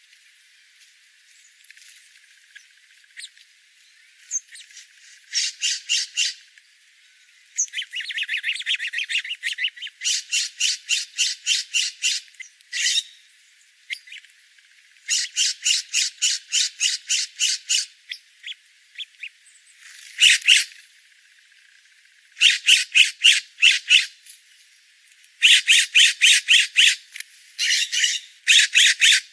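A bird calling in rapid series of short repeated notes, about five a second, each run lasting one to three seconds with brief pauses between runs, the runs coming closer together near the end.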